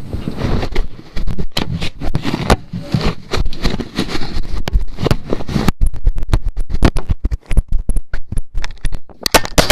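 A camera tumbling inside a running clothes dryer, heard from the camera's own microphone: dense, irregular knocking and scraping as it is thrown against the drum.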